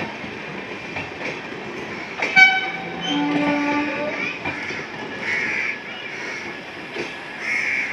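Passenger coaches of a departing express train rolling past on the rails, with steady wheel clatter. A train horn sounds suddenly about two and a half seconds in and holds for about a second and a half.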